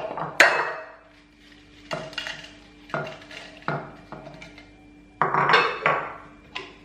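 Kitchen utensils and dishes clinking and knocking against each other: a few separate knocks spaced about a second apart, then a longer clatter near the end, over a faint steady hum.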